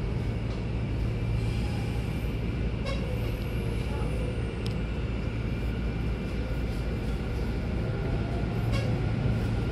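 Hanshin Namba Line train running, heard from inside the car as it pulls out of the station and into the tunnel: a steady low hum and rumble with a few short clicks.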